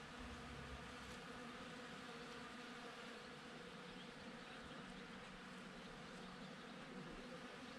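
Honeybees buzzing at cherry blossoms: a faint, steady hum.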